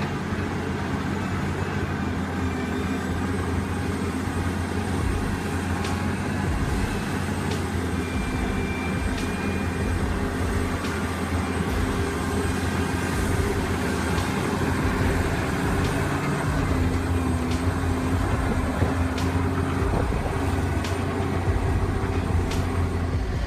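Large diesel engine of heavy machinery running steadily, a deep even hum.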